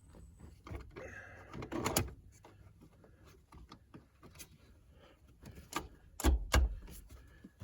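Scattered clicks, knocks and rattles of parts being handled in a car interior, with two heavier thumps about six seconds in.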